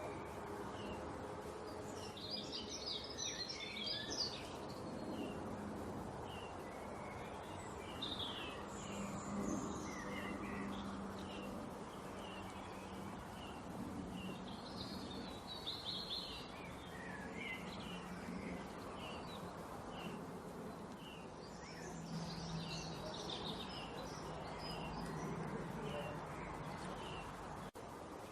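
Small songbirds chirping and twittering in quick high bursts every several seconds, over a steady low hum and background noise.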